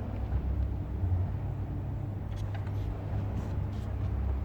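Steady low rumble, with a few faint light clicks from handling small parts in the second half.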